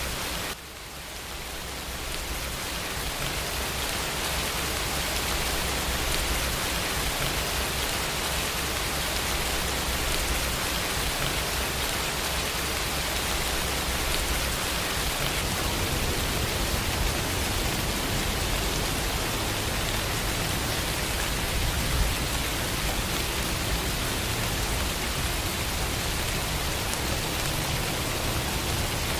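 Steady rain falling, a continuous even hiss. About half a second in the sound drops suddenly and swells back up over the next few seconds.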